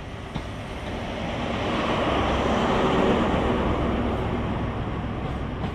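Class 43 HST diesel power car and its coaches passing close by as the train pulls out, a rumble with a steady engine hum. It grows louder to a peak about three seconds in as the rear power car goes past, then fades.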